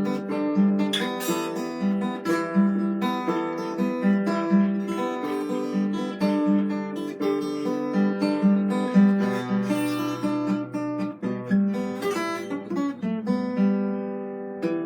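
Acoustic guitar being strummed in a steady rhythm.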